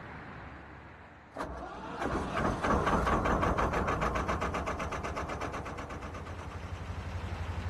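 A narrowboat's diesel engine being restarted. It catches about a second and a half in after a sharp start, runs up loudly, then settles into a steady, fast-pulsing idle.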